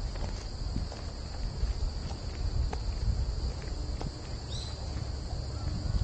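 A steady high-pitched chorus of insects, with a walker's footsteps on a forest path.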